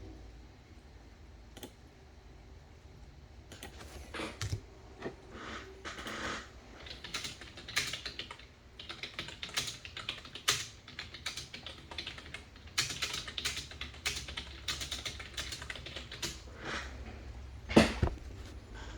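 Quick, irregular light clicks and taps, coming thick and fast through the middle, with one louder knock near the end.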